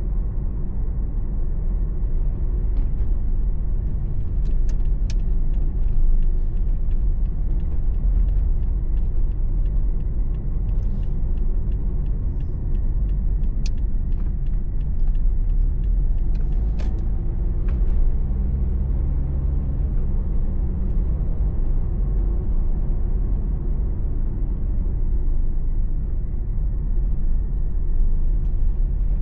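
Car engine and road noise heard from inside the cabin while driving: a steady low rumble, with a few short clicks.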